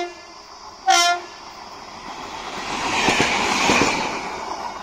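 A train horn gives one short blast about a second in, followed by a rush of train noise on the rails that swells to a peak a little past halfway, with a few knocks, then fades.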